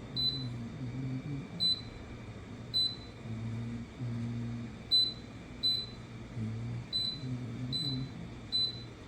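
Digital air fryer oven's control panel beeping as its buttons are pressed: eight short, high beeps at uneven gaps.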